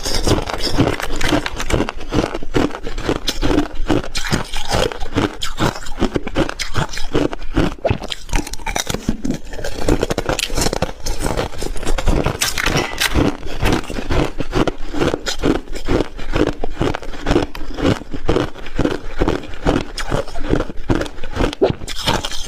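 Close-miked chewing of ice, many rapid crunches a second.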